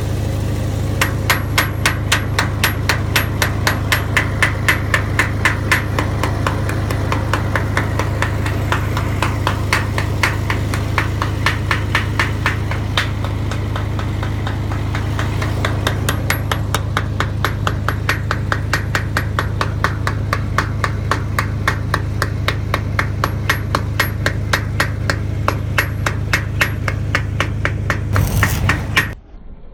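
Rapid, evenly spaced metal-on-metal hammer taps, about three a second, pausing briefly about halfway, over the steady hum of an engine running. Everything cuts off abruptly near the end.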